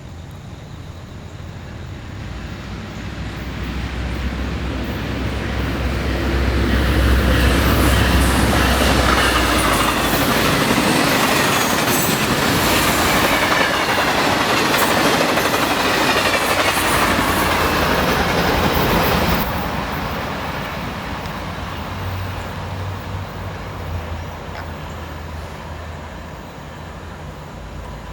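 Train passing on the main line: a low locomotive rumble swells, then the clatter of wheels on the rails builds to its loudest. The loudest part cuts off abruptly about two-thirds of the way through, leaving a quieter low rumble.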